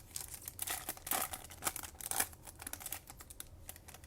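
A trading-card pack's foil wrapper crinkling as it is torn open and handled. The rustles come in irregular bursts and thin out after about two seconds.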